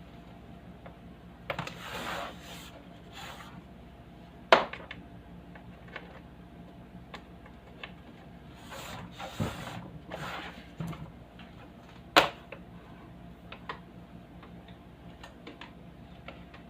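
Handling noises: rubbing and scraping in two stretches, with two sharp knocks, one about four and a half seconds in and one about twelve seconds in, and small scattered clicks, over a faint steady hum.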